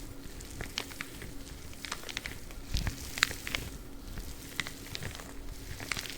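Spiky rubber gloves rubbed and tapped close to the microphone: irregular crackles and sharp clicks with a few soft low thumps.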